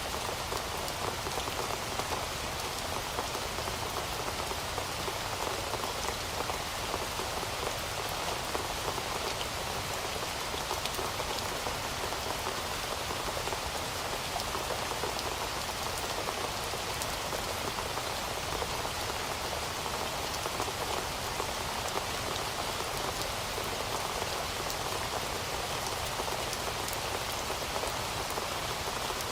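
Heavy rain falling steadily: an even, unbroken hiss of drops, with many small drop ticks throughout.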